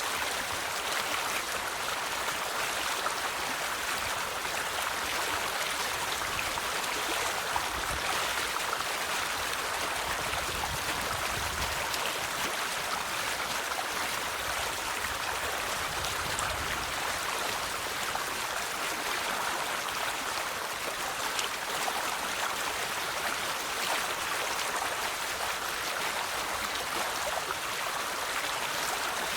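A river's water running and burbling steadily, an even rushing hiss with no breaks.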